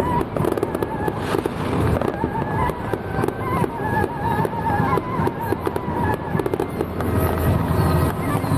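Fireworks crackling in a dense, continuous stream of rapid pops, with the wavering tones of music playing underneath.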